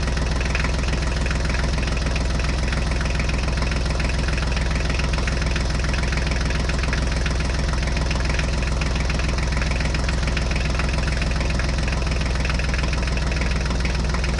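Tractor engine idling steadily with a fast, even knocking beat.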